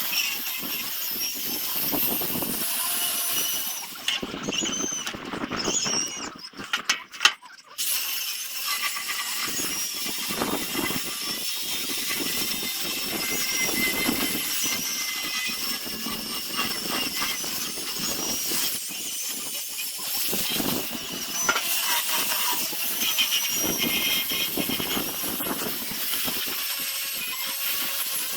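Power sanding tool abrading zelkova root wood: a steady scratchy grinding with high squealing whines. It drops away for a few seconds about four seconds in, with a couple of sharp knocks, then picks up again.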